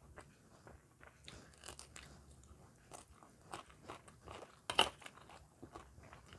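Close-miked chewing and crunching of food in the mouth, a run of short crisp crunches with the loudest bite a little under five seconds in.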